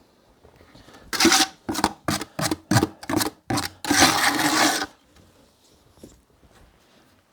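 Rapid scraping strokes on brick and mortar during bricklaying: about seven short rasping strokes, then one longer one.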